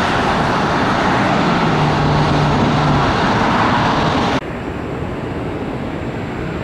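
Jet airliner engine noise, a loud steady roar, which cuts off abruptly about four and a half seconds in and gives way to a quieter steady rumble.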